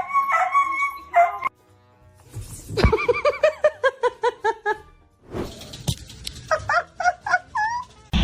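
A dog yipping: a quick run of short, high barks at about five a second from about three seconds in, then a few more yips near the end.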